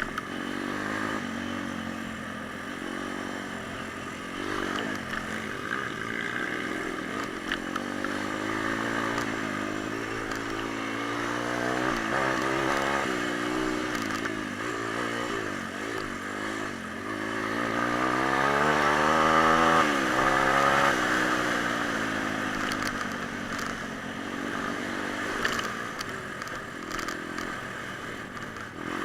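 Pit bike's single-cylinder four-stroke engine under way, its revs repeatedly rising and falling with the throttle. The longest, loudest climb in pitch comes about two-thirds of the way through before it drops back.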